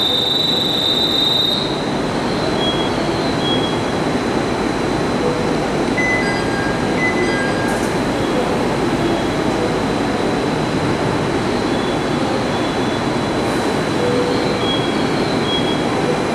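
A JR East 701 series electric train standing at the platform, its equipment running in a steady noise under a thin, steady high tone. A few short electronic beeps sound about six to seven seconds in.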